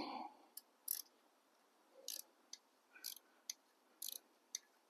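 Faint, irregular short clicks and scrapes of hand work on a motorcycle exhaust, about a dozen spread unevenly.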